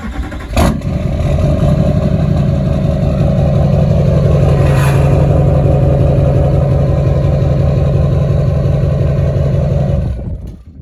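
Duramax diesel engine running steadily and loudly on a cold start, after a sharp noise about half a second in; the sound cuts off abruptly near the end.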